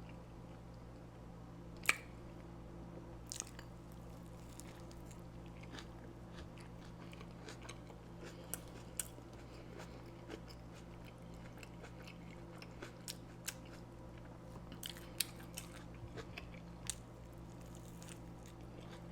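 Close-miked chewing and biting of fast food, with scattered short crunches and wet mouth clicks. A steady low hum runs underneath.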